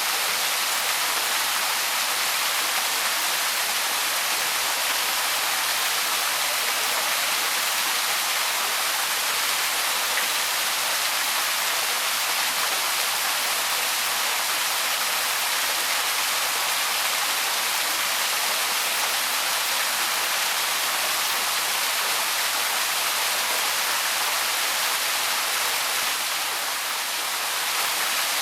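Small waterfall on a woodland stream, water falling and splashing in a steady hiss, dipping slightly for a moment near the end.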